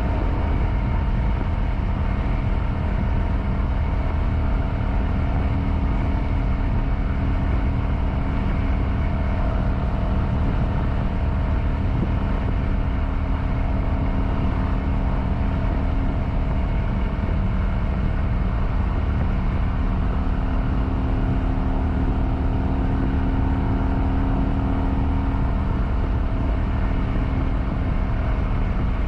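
Kawasaki Vulcan 900's V-twin engine running steadily at cruising speed, with a strong low rumble underneath.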